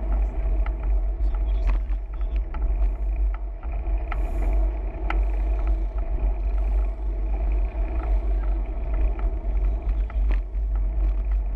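Steady low rumble of wind and road noise on a camera riding along on a moving bicycle, with scattered small clicks.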